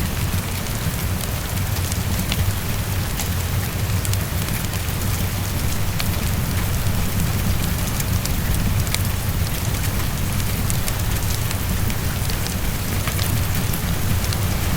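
Heavy rain falling steadily against a window, with a low rumble under it. Many small ticks and crackles are scattered through it, blended with a crackling fireplace.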